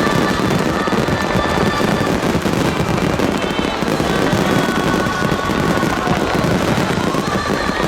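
Aerial fireworks bursting in a dense, unbroken barrage of many overlapping bangs, typical of a grand-finale salvo.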